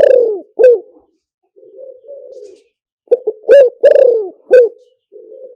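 Spotted dove cooing: a loud phrase of short coos with one longer coo that falls in pitch, then a soft, low burring coo, given twice about three seconds apart.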